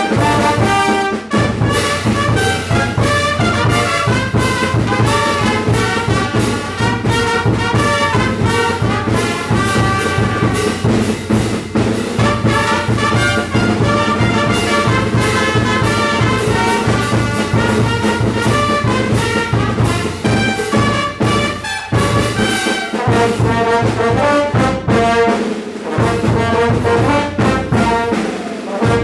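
Brass band music: trumpets and trombones playing a melody over a low brass bass line and a steady percussion beat, with the bass dropping out briefly about two-thirds of the way through.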